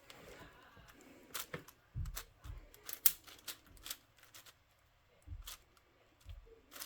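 Plastic puzzle cube being turned by hand: irregular sharp clicks of the layers, with a few dull thumps.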